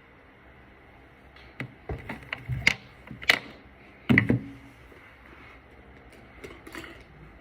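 A quick run of clicks and knocks of small hard objects being handled and set down, loudest in three sharp knocks in the middle, with a few fainter clicks near the end.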